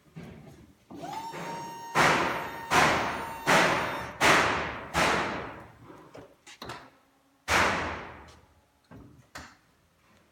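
A brief steady tone, then a run of five loud bangs about three-quarters of a second apart, each ringing out briefly, and one more bang a couple of seconds later.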